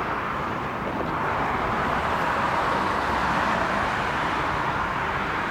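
Jet airliner's engines running as it passes, a broad rushing noise that swells to its loudest about three seconds in and then eases.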